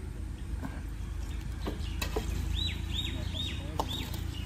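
A bird chirping: four short, high, arching notes about half a second apart in the second half, over a steady low rumble with a few scattered clicks.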